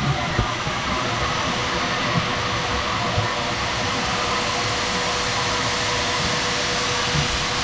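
Shop vacuum running steadily with an even whine, sucking debris out of a trench cut in a concrete slab, with a few dull knocks.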